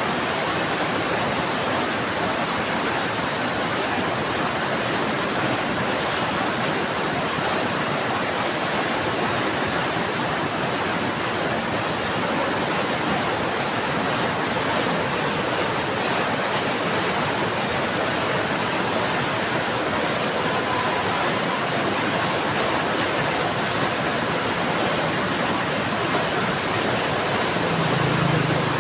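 Heavy rain pouring steadily, a dense even hiss. A short low hum rises briefly near the end.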